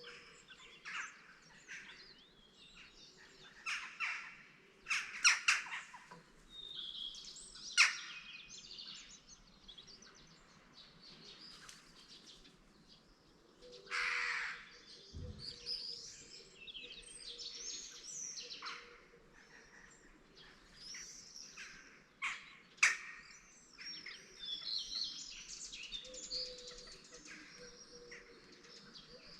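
Several wild birds chirping and singing in a morning chorus, with overlapping trills and a few louder, sharp calls standing out about five, eight and twenty-three seconds in.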